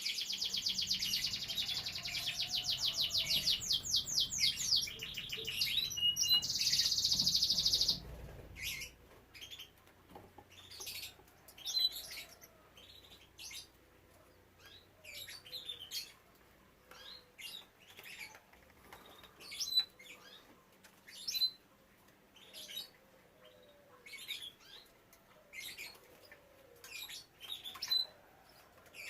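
Canaries: a loud, fast trilled song that stops suddenly about eight seconds in, followed by scattered short chirps and calls.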